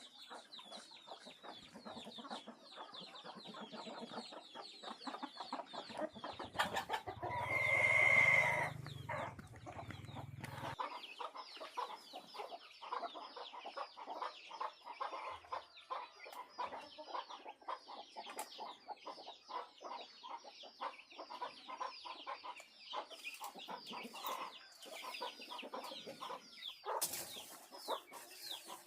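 Chickens clucking and chirping continuously, with a rooster crowing loudly about seven to eleven seconds in.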